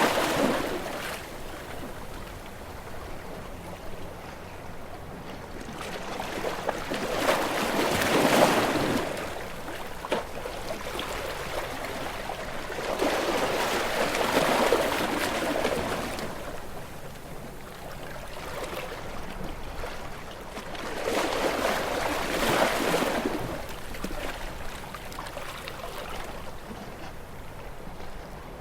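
Calm sea waves washing onto a beach: each wave swells and draws back, three of them rolling in about seven seconds apart, with the end of another at the start.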